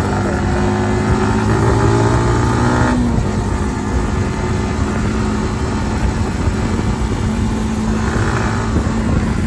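Kawasaki ZX-10R's inline-four engine on its stock exhaust, running under way. The engine note holds steady, rises a little and then drops off abruptly about three seconds in, as if the throttle were rolled off. After that a rougher, noisier engine sound carries on.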